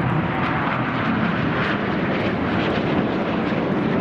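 Jet engine noise from the Red Arrows' BAE Hawk T1 jets flying their display: a loud, steady rush with no distinct pitch.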